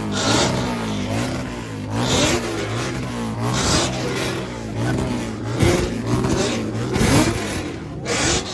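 Vehicle engines being revved over and over, the pitch climbing and falling back roughly every second and a half, with a hiss-like surge at each peak.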